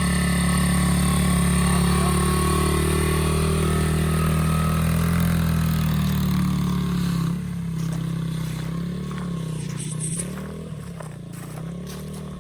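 Motorcycle engine running at a steady speed, then quieter from about seven seconds in, with a few small dips and rises in engine speed near the end.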